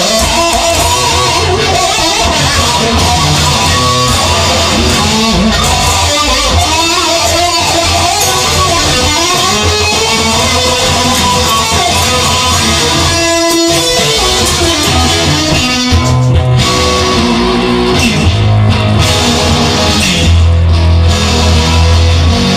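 Instrumental rock music: guitar playing over a steady bass line, with no singing.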